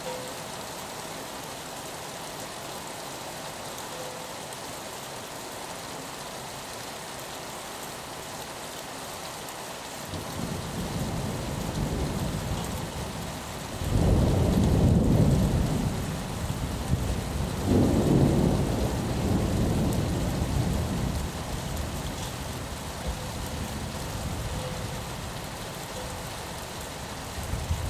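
Steady rain with a rolling rumble of thunder that builds about a third of the way in, is loudest in the middle with two swells, and then dies away.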